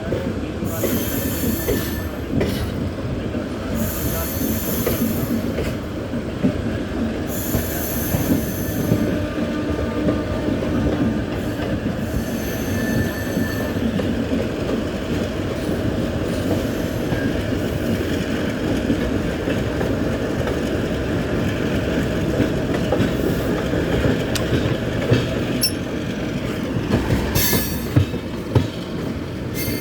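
Train running at speed: a steady rumble and rattle of wheels on the rails, with a few short high-pitched squeals or hisses, several in the first ten seconds and one more near the end.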